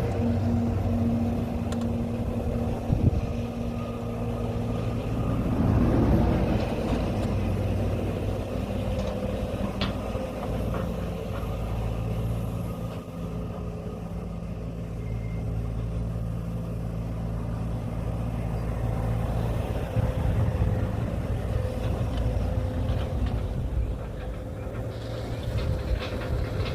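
An engine running steadily at a constant speed, with a few short knocks.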